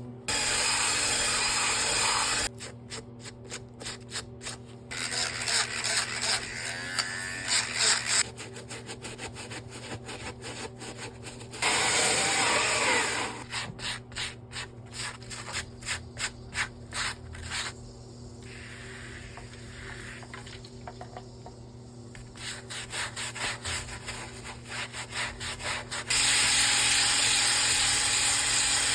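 A brush scrubbing the inside of a sneaker in quick back-and-forth strokes, in several short stretches. Between them come stretches of a steady hiss.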